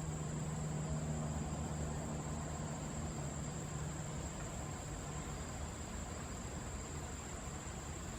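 Steady forest ambience dominated by an insect's continuous high-pitched drone over a constant hiss. A low hum underneath fades out about halfway through.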